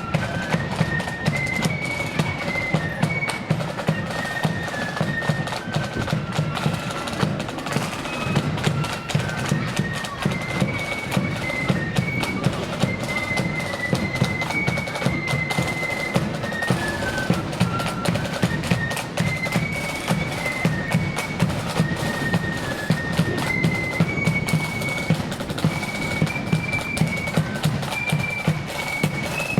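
Marching flute band playing a tune in unison, a high stepping melody over steady, regular drum beats.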